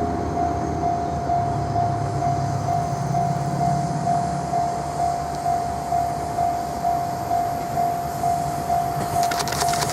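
A level-crossing warning bell dinging steadily at about three strokes a second over the low running of a Kiha 58-series diesel railcar as it approaches. Near the end, wheel clicks on the rail joints begin as the train reaches the crossing.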